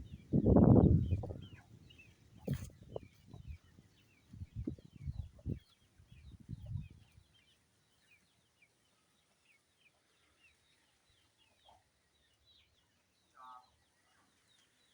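Low rumbles and knocks of handling or wind on the microphone in the first several seconds, then a faint farmyard: many small bird chirps and a chicken clucking briefly near the end.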